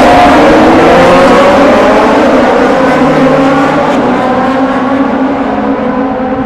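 Moto2 race motorcycles, Triumph 765 cc three-cylinder engines, running hard at full throttle, their note climbing slowly as they accelerate. The sound fades a little over the last couple of seconds as they pull away.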